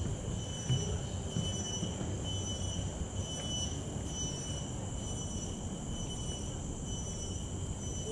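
Tropical rainforest insect chorus: several steady high-pitched drones layered together, one of them pulsing about once a second, over a low rumble.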